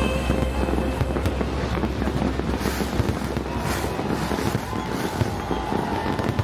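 New Year fireworks going off: a dense crackling of many small pops with an occasional louder bang.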